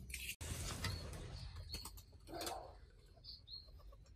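Birds calling faintly, with a few short high chirps in the second half, and a brief soft scuffing sound about halfway through.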